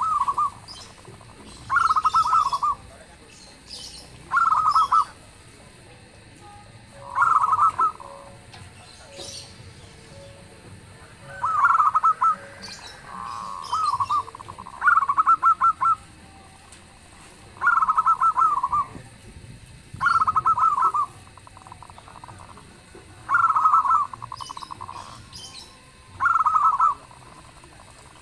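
Zebra dove cooing: a loud, fluttering coo phrase repeated about every two to three seconds, about ten times, with a softer coo a little before the middle. Faint high chirps from other small birds sound between the phrases.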